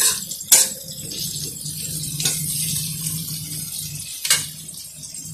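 Vegetables frying in oil in a kadhai, a steady sizzle with a low hum under it, broken four times by sharp clinks of a steel spoon against the pan and the spice plate.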